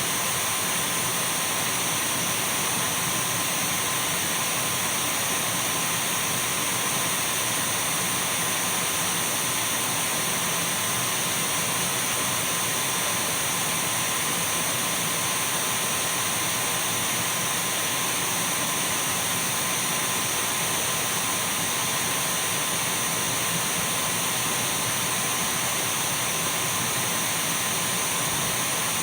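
Dyson V12 cordless stick vacuum cleaner running steadily: an even rushing of air with a thin, constant high whine over it, unchanging throughout.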